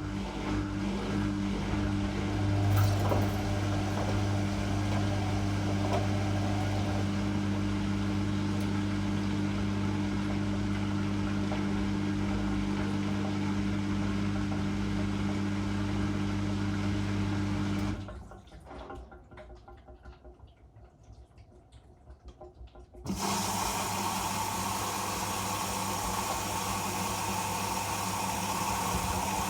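Whirlpool washing machine's drain pump humming steadily over draining water, then cutting off suddenly. A few seconds later the water inlet valve opens and water rushes into the machine with a steady hiss as it fills for the next stage of the cycle.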